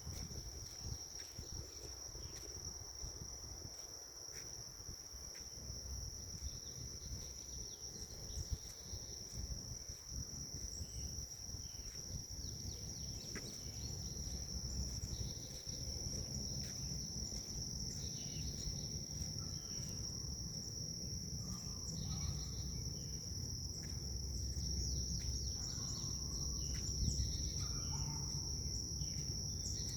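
Grass insects trilling in one steady, unbroken high-pitched tone, with short bird chirps scattered through the second half and a low rumble of wind growing toward the end.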